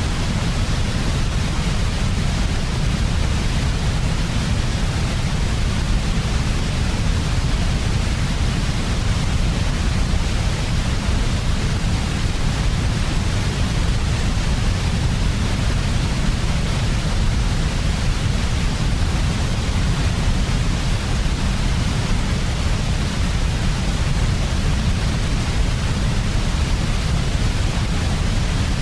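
Steady synthetic white noise for baby sleep, an even unchanging hiss with a heavy low rumble beneath it.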